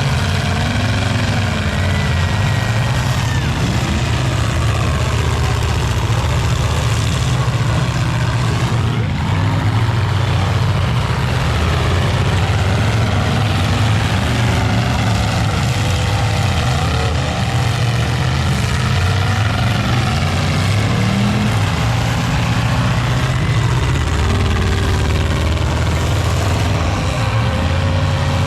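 Several full-size demolition derby cars' engines running and revving at once, their pitches rising and falling over each other in a loud, unbroken din.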